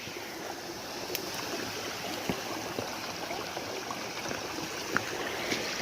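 Spring-fed stream water running steadily at the waterfall spring, a low, even rush. The flow is running low.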